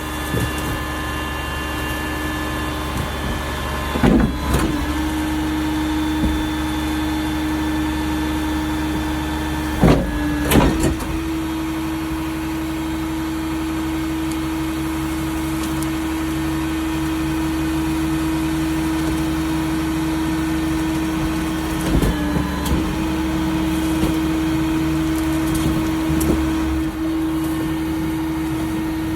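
Mack RD garbage truck's diesel engine running with a steady drone and a held tone. Loud metal clanks break in about four seconds in, twice around ten seconds, and once near twenty-two seconds.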